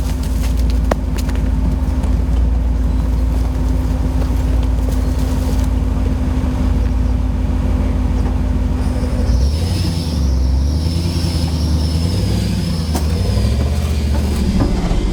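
Nissan GQ Patrol's engine running steadily, heard on board; about nine seconds in its pitch starts to rise and fall and a high whine joins it.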